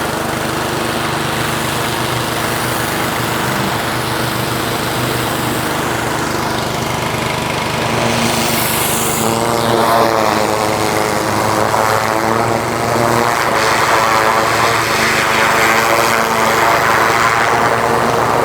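Small engine of a wash pump running steadily, with spray hiss getting louder from about eight seconds in.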